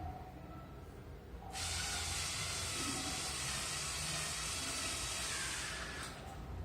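A steady hiss that starts suddenly about a second and a half in and stops suddenly about four seconds later.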